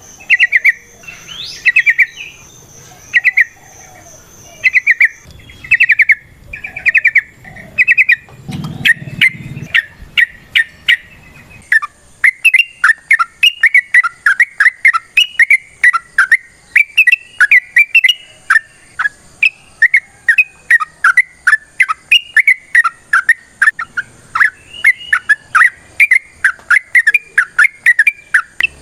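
Yellow-vented bulbul (trucukan) singing: short bubbling phrases about once a second at first, then, from under halfway through, a long unbroken run of rapid chattering notes, the bird's long song.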